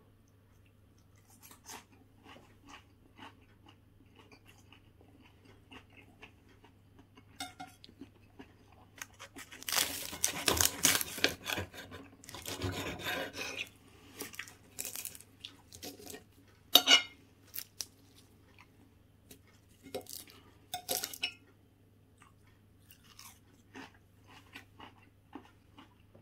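A person chewing mouthfuls of puff-pastry meat pie, with a louder crunching stretch about ten seconds in. A few sharp clinks of knife and fork on the china plate come later.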